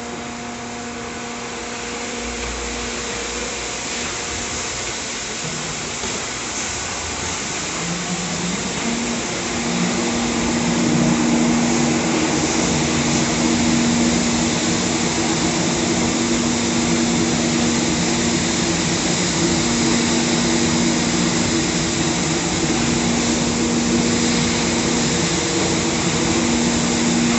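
A machine running steadily, with a droning hum over a hiss; it grows louder and the hum rises a little about nine seconds in, then holds steady.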